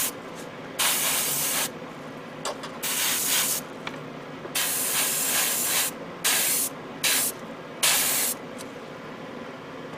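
Airbrush spraying paint in short bursts, about six of them, each a second or less of hiss.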